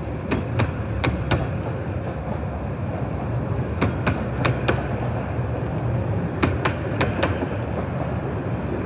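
Miniature-railway passenger train running along the line: a steady rumble with a clickety-clack of four quick wheel clicks over each rail joint, the groups coming about every two and a half to three seconds.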